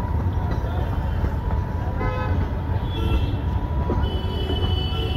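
Train at a station, rumbling low and steady, with a brief pitched toot about two seconds in and a high thin steady tone starting about four seconds in.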